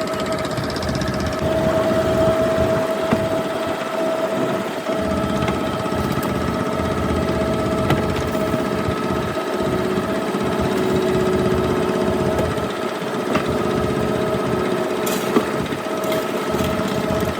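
A boat engine running steadily, with a constant drone and a few faint clicks.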